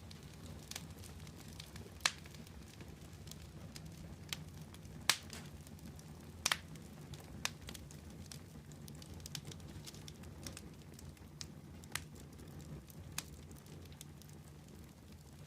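Fire crackling: irregular sharp pops and snaps over a steady low rumble, the loudest pops about 2, 5 and 6.5 seconds in.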